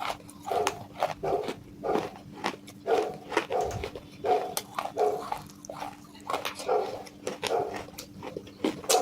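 Close-up crunching and chewing of broken baked-clay pot pieces coated in chalk paste, bite after bite, with gritty crunches about once or twice a second.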